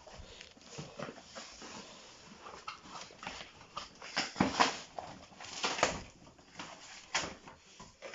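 Irregular rustles, scrapes and knocks of flat-pack packaging and parts being handled during unpacking, loudest in a cluster about four to six seconds in.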